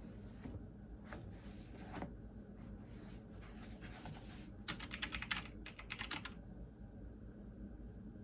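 Computer keyboard typing: a quick run of keystrokes lasting about a second and a half, just past the middle, with a few softer isolated taps before it.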